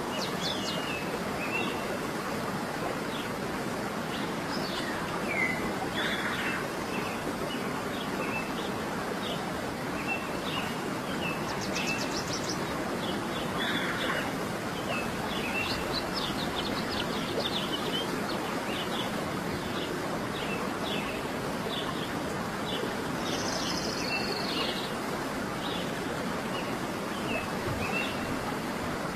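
Small birds chirping and calling in many short, quick notes, with a brief rapid trill about twelve seconds in. Underneath is a steady rushing background noise.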